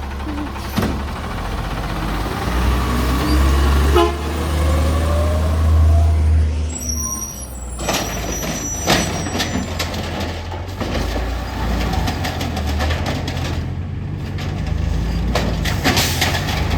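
Garbage truck engine running, revving up with rising pitch for a few seconds as it picks up the recycling, then a run of knocks and clatter.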